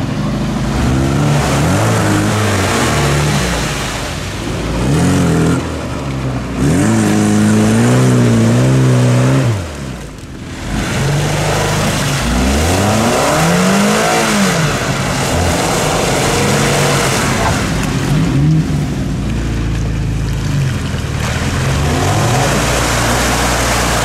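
Car engine revving hard, its pitch climbing and falling again and again as the car is driven through mud, with a short drop in level about ten seconds in.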